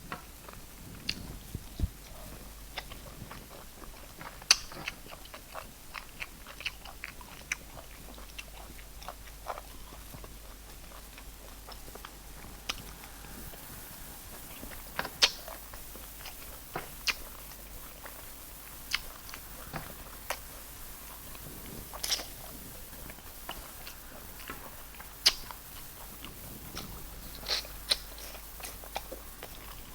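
Close-up chewing and biting sounds of someone eating rice and stew: short, sharp mouth clicks and smacks every second or so, some much louder than the rest.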